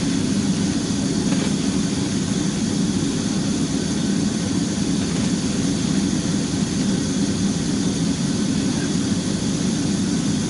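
Steady in-flight cabin noise of a jet airliner: the even low rushing drone of engines and airflow, heard inside the aircraft's lavatory, with no change in pitch or level.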